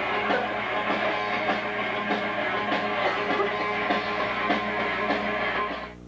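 Rock music with electric guitar and a drum kit playing loudly, cutting off abruptly near the end.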